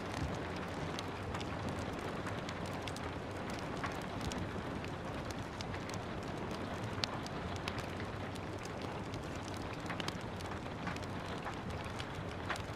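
Steady rain falling, mixed with a wood fire crackling, its irregular pops and snaps scattered through the rain, the sharpest pop about seven seconds in.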